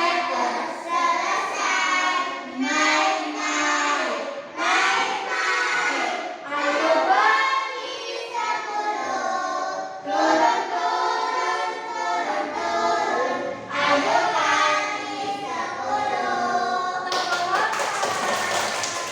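A group of children singing together, with a burst of clapping near the end.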